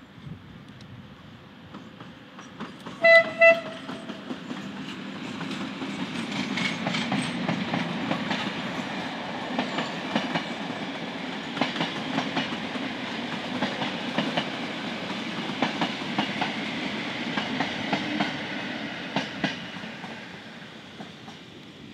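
HŽ series 1141 electric locomotive sounds two short horn blasts about three seconds in. It and its carriages then pass by, the wheels clicking over the rail joints, and the rumble builds and fades out near the end.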